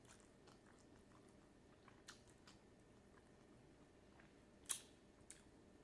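Faint chewing of a mouthful of noodles, with a few soft wet mouth clicks and smacks. The sharpest comes about three-quarters of the way through.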